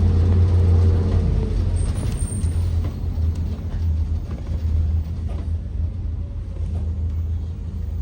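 Ford 7.3-litre V8 engine of a Blue Bird Vision school bus running, heard from inside the bus as a steady low drone that eases off over the first few seconds.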